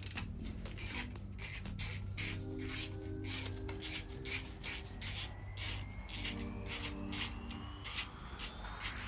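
Hand-tool work on the engine's case bolts: a run of short rasping strokes, about two a second.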